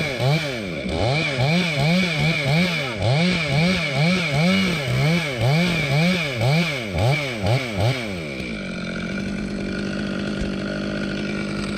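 Chainsaw cutting through a dead tree, its engine pitch rising and falling about one and a half times a second as the cut loads and frees it. About eight seconds in it settles to a steady, even engine note.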